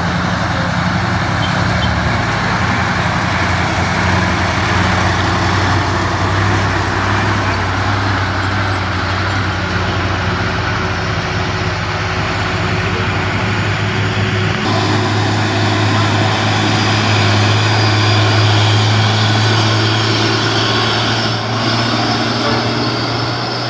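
Heavy truck engine running steadily under load, with a loud spread of road and engine noise over a deep hum. The engine note shifts and the hum grows stronger about two thirds of the way through.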